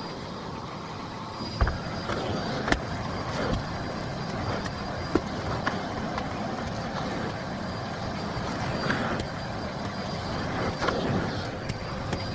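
Miele Blizzard CX1 bagless cylinder vacuum cleaner running steadily, with a faint high whine and a few sharp knocks, the two biggest about two and three seconds in.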